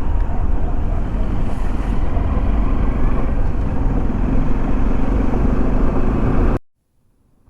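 Motorcycle on the move: steady engine and road rumble with wind rushing over the microphone. The sound cuts out abruptly about a second before the end.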